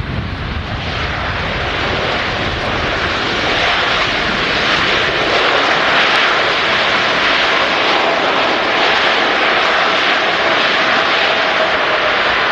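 Large jet airliner passing on landing approach, its engine roar swelling over the first few seconds and then holding loud and steady.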